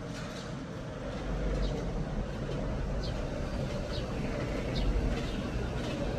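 A steady low rumble that grows a little louder about a second in, with a few faint short high chirps over it.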